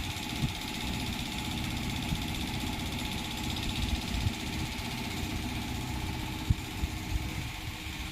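A motor running steadily, with a few short low thumps, the strongest about six and a half seconds in.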